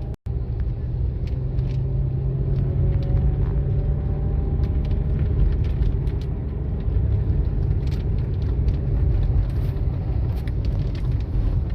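Car engine and road rumble on a steep uphill road, a steady low drone with a faint engine note that rises and falls.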